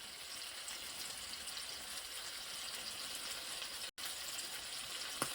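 Food sizzling steadily in a frying pan, with a short click near the end.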